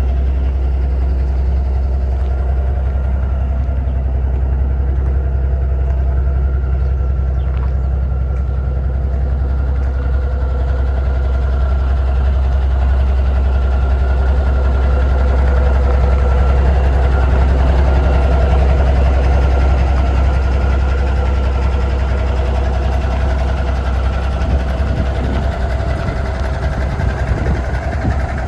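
Cummins diesel engine of a 1987 Peterbilt 377 truck idling steadily.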